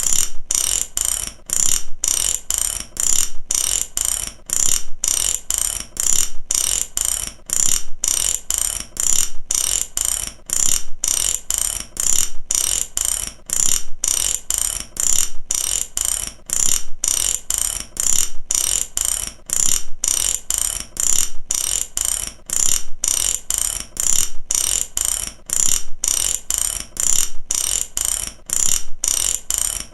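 Mechanic's ratchet wrench worked back and forth, its pawl giving runs of bright metallic clicks in even strokes about once a second.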